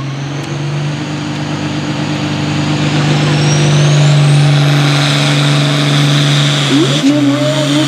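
Turbocharged diesel pulling tractor running hard under load, its engine note steady and growing louder. A high turbo whine rises in pitch about three seconds in and then holds.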